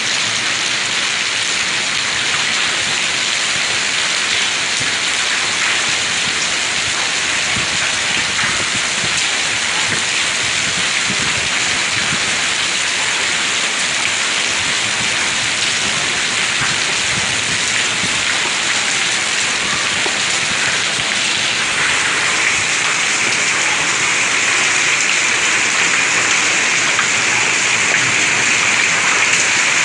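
Hailstorm: hail and heavy rain pelting down in a dense, steady patter that grows louder about twenty seconds in.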